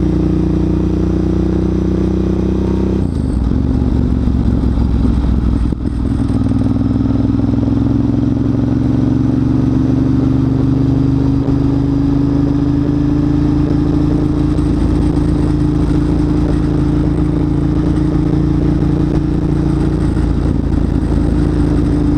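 Motorcycle engine running while the bike is ridden. About three seconds in, the engine note changes, then it holds steady and creeps slowly higher in pitch.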